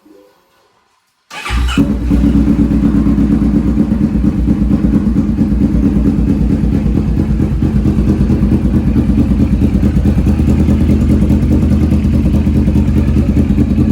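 Kawasaki Vulcan 650S's parallel-twin engine starting about a second in, then idling steadily with an even pulse, freshly filled with new oil.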